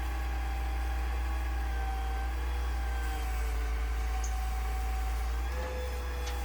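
Crane truck's engine running steadily with a low rumble and a droning whine that shifts slightly in pitch, rising a little near the end.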